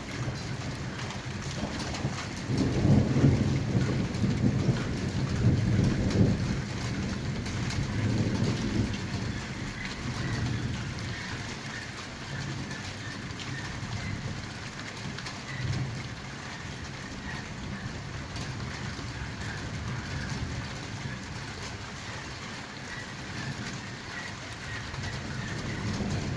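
Steady rain falling on hard surfaces during a thunderstorm, with a long roll of thunder that swells a couple of seconds in and dies away over several seconds.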